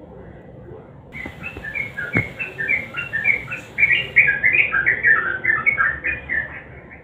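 Yellow-vented bulbul (trucukan) singing: a fast, jumbled chatter of short, pitch-jumping notes starting about a second in and running on without a break. A single sharp knock sounds about two seconds in.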